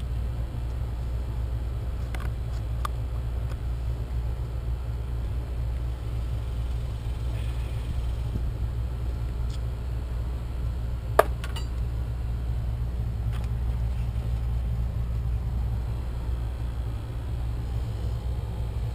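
A steady low rumble with a few light clicks and taps of parts being handled, and one sharp click about eleven seconds in.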